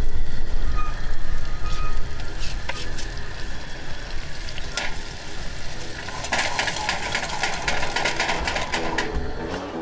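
Butter, garlic and pippies frying in a steel pot on a camp stove, a crackling sizzle that grows stronger about six seconds in. Wind rumbles on the microphone in the first couple of seconds, and guitar music comes in near the end.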